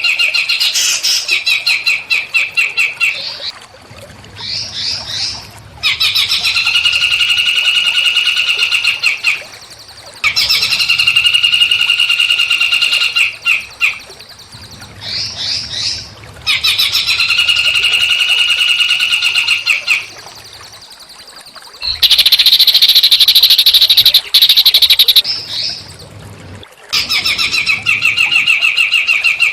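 A small songbird singing in long, rapid trills of evenly repeated notes, each phrase lasting about three to four seconds with short pauses between. About two-thirds of the way through comes a harsher, buzzier burst.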